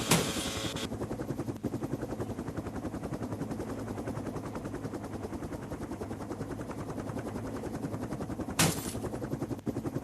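Helicopter rotor thudding in a rapid, even beat, about seven or eight thuds a second. A high hiss stops just under a second in, and a short, loud rush of noise comes near the end.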